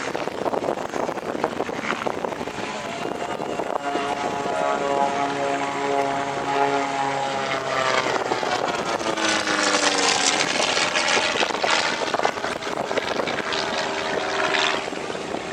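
Propeller aircraft engine running and passing. The engine tone holds steady, then falls in pitch about nine to eleven seconds in as the aircraft goes by, and a second engine tone comes up near the end.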